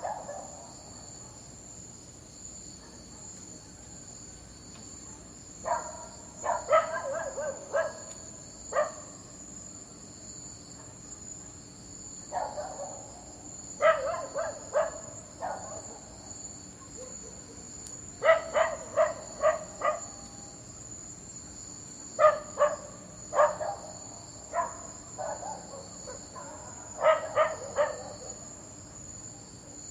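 A dog barking in repeated bouts of several quick barks, with pauses of a few seconds between bouts, over a steady high-pitched background drone.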